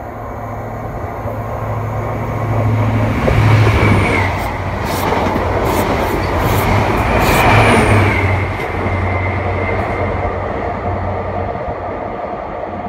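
Great Western Railway express train running past along the platform: a low engine hum with the rumble of wheels on the rails. It grows loudest about three and a half seconds in and again near eight seconds, each time with a high whine that drops in pitch, then eases as the train draws away.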